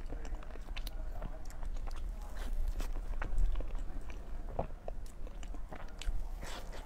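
Close-miked mouth sounds of a person eating a soft green pastry: wet chewing clicks and small crunches, with a fresh bite near the end.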